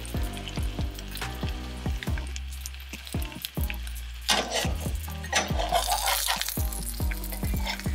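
Bread sandwiches sizzling as they fry in a stainless steel skillet, with a metal spatula scraping and clicking against the pan. The sizzle grows louder about four seconds in.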